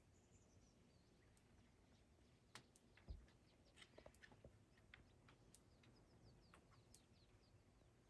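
Faint chirps and twitters of small songbirds, short high notes scattered irregularly, a few of them falling in pitch. A single low thump about three seconds in.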